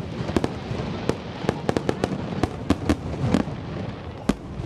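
Aerial firework shells bursting overhead: about a dozen sharp bangs and pops at irregular intervals over a steady noisy background, with a loud bang near the end.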